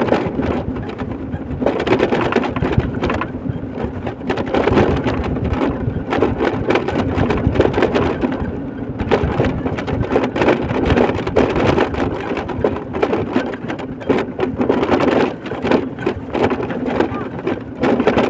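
Rumbling wind buffeting and road noise from a moving vehicle, a loud, uneven roar with frequent crackles.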